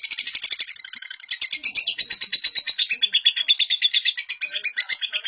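Lovebird chattering in one long unbroken trill: rapid high-pitched chirps, more than ten a second, with no pause.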